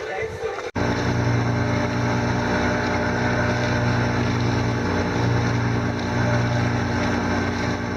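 Music cuts off abruptly under a second in, followed by a boat engine running at a steady speed.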